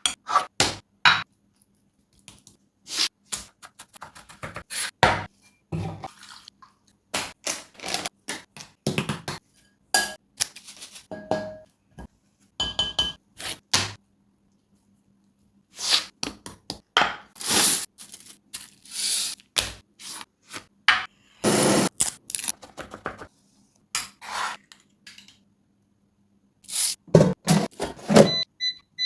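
Kitchen utensils and dishes during cooking preparation: irregular knocks, scrapes and thunks, with a few short ringing clinks of metal or glass, and brief pauses between them.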